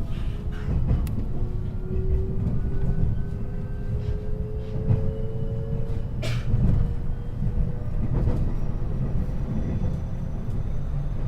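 521 series electric multiple unit heard from inside the motor car, running with a steady low rumble while the traction motor whine rises slowly in pitch as it gathers speed. A few clicks of the wheels over rail joints, the sharpest about six seconds in.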